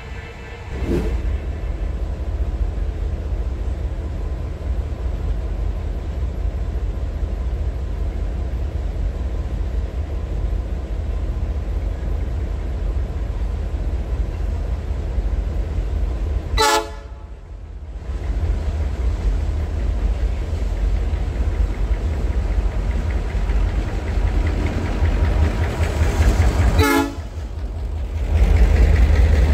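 Diesel freight train running, a steady deep rumble. It breaks off briefly about seventeen seconds in and again near the end.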